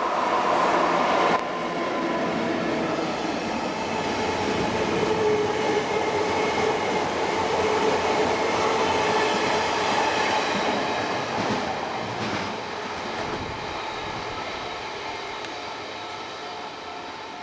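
Train of 485-series cars hauled by an EF64 electric locomotive passing over a level crossing. The wheels clatter and rumble on the rails, loudest in the first half and fading toward the end, while the crossing's warning bell keeps ringing.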